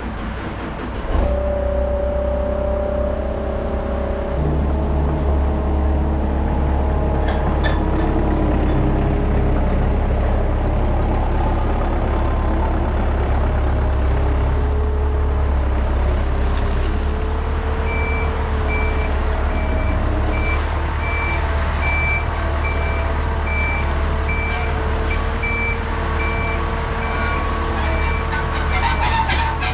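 Heavy diesel engine running under load, its revs stepping up about a second in, with a reversing alarm beeping steadily from about halfway through.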